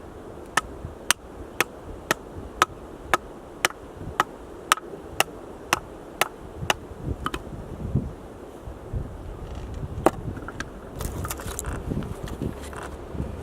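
A tool striking firewood while splitting it: about fourteen sharp, evenly spaced blows, two a second, then a pause and one more blow, with softer knocks of wood near the end.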